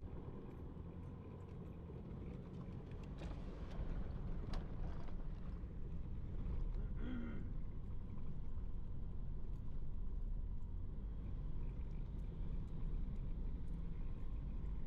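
Vehicle on the move: a steady low engine and road rumble, with a brief higher pitched sound about seven seconds in.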